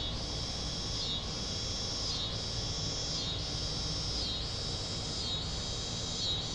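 A high-pitched insect chorus, steady but dipping briefly about once a second in a regular throb, over a low outdoor rumble.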